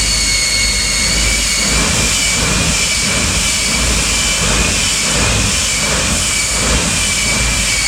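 Jet turbine engine of a jet-powered Kenworth semi truck running steadily: a loud rushing noise with several high whining tones that hold a steady pitch.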